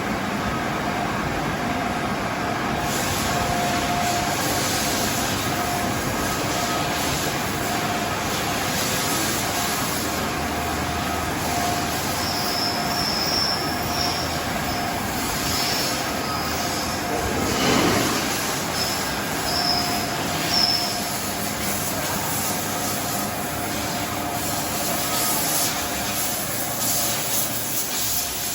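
CNC machine tools running in a metalworking shop, a steady mechanical din with held tones. A high-pitched metallic squeal comes and goes through the middle stretch.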